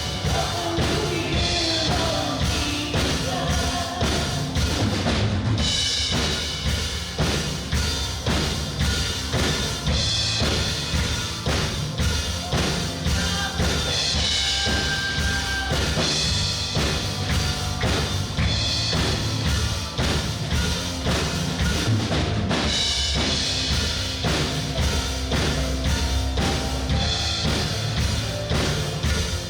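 A live worship band playing an instrumental passage, with a steady drum-kit beat of bass drum and snare under held keyboard and guitar notes.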